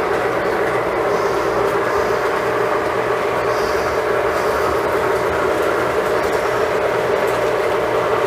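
Lionel model train running steadily around the layout: a continuous whir of the locomotive's motor and rumble of wheels on three-rail track.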